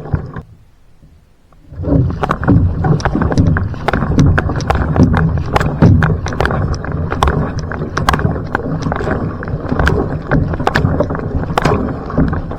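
Va'a outrigger canoe under paddle: splashing paddle strokes and water rushing along the hull, with many sharp clicks and knocks. The sound drops away briefly just after the start, then picks up again.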